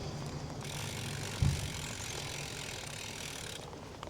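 Bicycle rear-hub freewheel buzzing while the rider coasts. It starts about half a second in and cuts off abruptly about three seconds later as pedalling resumes, with a single low thump about a second and a half in over a steady low rumble.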